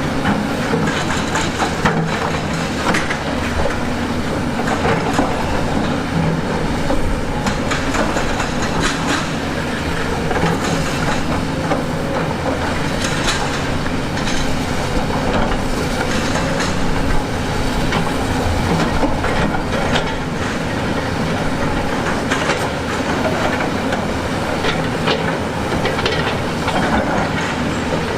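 Heavy tracked construction machine working: a diesel engine running steadily under a dense, irregular run of metallic clanks and knocks.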